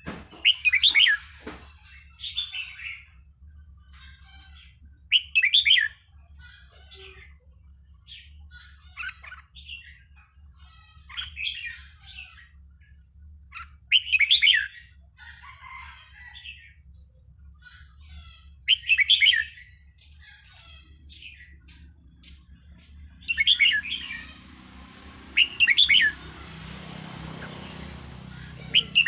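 Red-whiskered bulbul singing: short, loud warbled phrases repeated every few seconds, with softer chirps in between.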